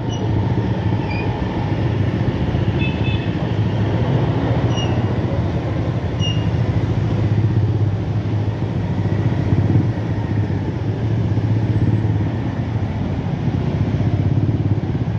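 Motorcycle engine running low and steady while creeping through a traffic jam, with the surrounding car traffic. A few faint, short high chirps come in the first six seconds or so.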